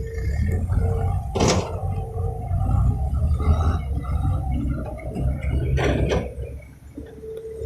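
Heavy diesel earthmoving machinery running with a steady low rumble. Two short hissing bursts come about a second and a half in and again near six seconds.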